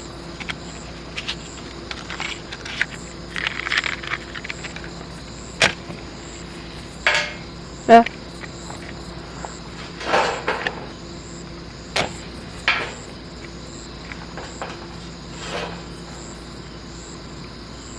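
Insects chirping steadily in a high, evenly pulsing trill, with scattered sharp knocks, clacks and short rustling bursts of objects being handled; the loudest knock is about eight seconds in.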